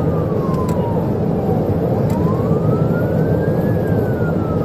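Police cruiser's wail siren, heard faintly as a slow fall, a rise and a fall again in pitch. Under it runs a loud, steady rush of engine and tyre noise from the patrol car in a high-speed pursuit.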